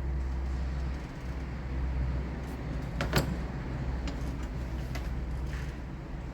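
A steady low hum with a few sharp clicks, the loudest about three seconds in.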